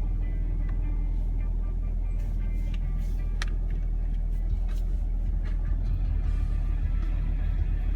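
Stock 2017 Camaro 2SS's 6.2-litre V8 running steadily with a deep low rumble on its factory exhaust.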